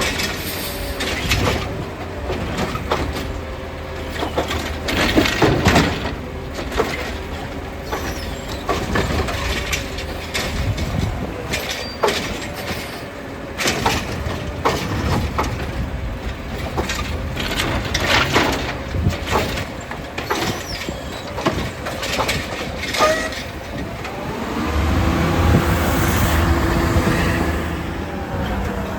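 Heil Rapid Rail automated side-loader garbage truck at work: diesel engine running, with repeated bangs and clatter as carts are tipped into the hopper. Near the end the engine revs up for a few seconds, its pitch rising and falling.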